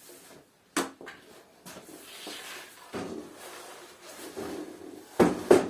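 Wooden boards being handled and set down: a knock about a second in, scraping and rustling, then two louder knocks near the end.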